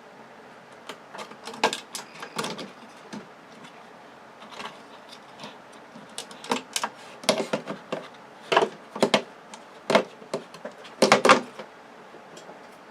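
Irregular clicks, taps and rattles of plastic and metal parts being handled and pried apart while a flat-screen TV is dismantled for scrap, coming in clusters with the sharpest knocks near the end.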